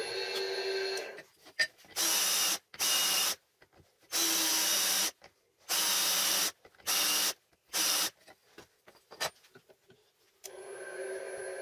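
Power tool switched on and off in six short bursts, each about half a second to a second long, with brief pauses between them.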